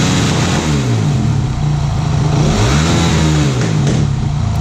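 Dirt bike engine revving, its pitch rising and falling a few times.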